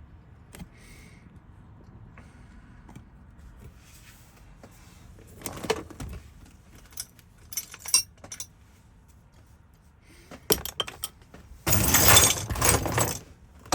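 Keys and small metal parts clinking and rattling as they are handled at a workbench, in scattered short clinks, then a louder rattle lasting over a second near the end.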